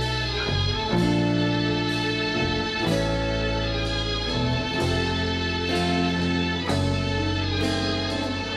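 Live band playing an instrumental passage of a song, with guitar to the fore over held bass notes and no singing.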